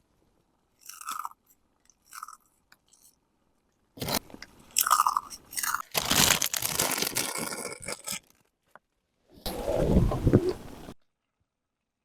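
Fritos corn chips being crushed: two short crunches, then a few seconds of dense crackly crunching, and near the end a deeper burst of noise.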